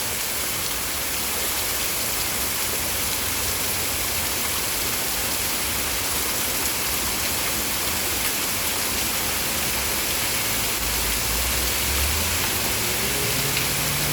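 Heavy rain falling steadily in a thunderstorm, an even hiss. A low rumble comes up near the end.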